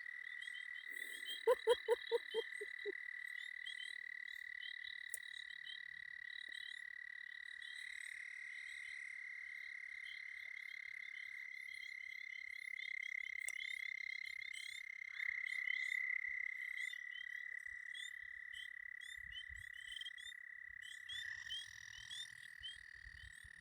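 Chorus of frogs calling at a breeding pond: a continuous trill, with many short high peeps over it. About two seconds in, one frog gives a quick run of about six lower croaks.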